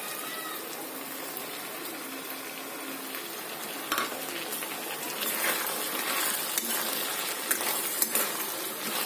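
Potato, aubergine and pea sabzi sizzling in hot oil in a kadhai. About four seconds in, a spatula starts stirring, scraping and clicking against the pan over the continued sizzle.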